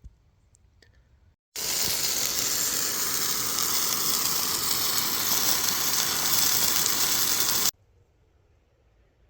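Sausages sizzling in a frying pan on a camping gas stove: a loud, steady hiss that starts suddenly about a second and a half in and cuts off suddenly about six seconds later.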